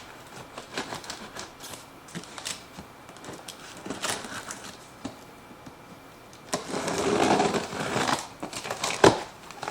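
Cardboard box being opened and its packing handled: scattered taps and scrapes, a longer rustle about six and a half seconds in, and a sharp knock near the end.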